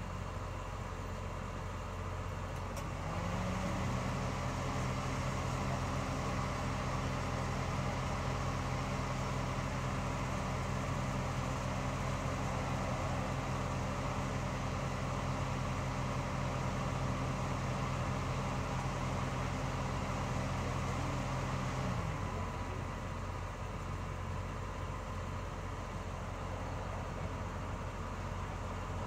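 A motor starts about three seconds in, runs at a steady pitch, and shuts off with a slight drop in pitch about twenty seconds later. A constant low hum continues underneath.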